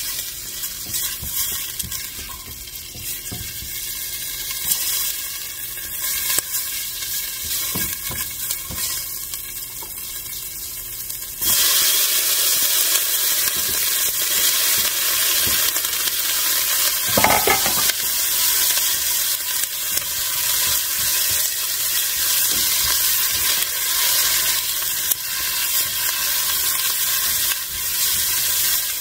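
Food frying in hot oil in a pan: a steady sizzle that jumps suddenly louder about twelve seconds in and stays loud.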